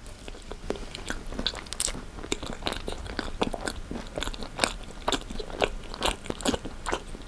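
Close-up chewing of Dutch salt caramel cake: a run of irregular crisp crunches, several a second, as the puffed-rice bits and nuts inside break between the teeth.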